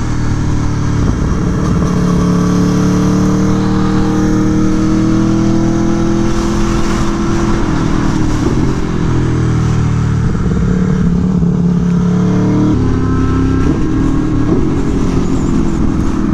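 Aprilia Tuono V4 1100's V4 engine, fitted with an SC Project CR-T exhaust, running hard on track. Its pitch climbs under acceleration, then steps down and rises again with the throttle and gear changes.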